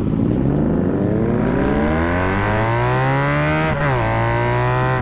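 Honda Magna V4 motorcycle engine accelerating, its pitch climbing steadily for over three seconds, then dropping sharply at an upshift about four seconds in and running steadily in the next gear.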